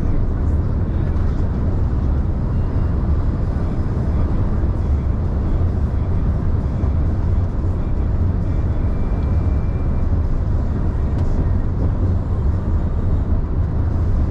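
Scania truck running, a steady low rumble with an even wash of mechanical and road noise.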